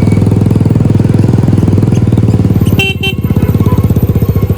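Motorcycle engine running loudly at a steady idle, its exhaust pulsing fast and even. A short high beep sounds about three seconds in.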